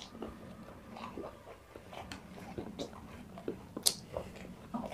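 Chewing and wet mouth sounds of people eating mutton curry and rice by hand, with scattered short sharp clicks and smacks, the loudest nearly four seconds in.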